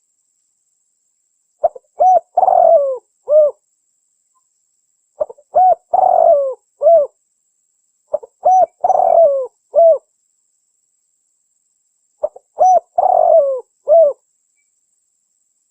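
Spotted dove (tekukur) cooing as a lure call, in four phrases a few seconds apart. Each phrase is a couple of short coos, then a longer falling coo and a final short note.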